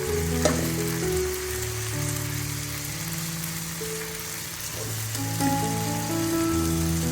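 Food sizzling in hot oil in a pan, a steady hiss, with a sharp click about half a second in. Background music of held notes plays underneath.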